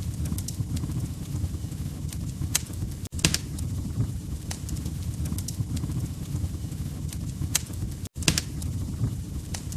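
Wood fire crackling: a steady low rumble with scattered sharp pops and snaps. The sound drops out for an instant twice, about three and eight seconds in.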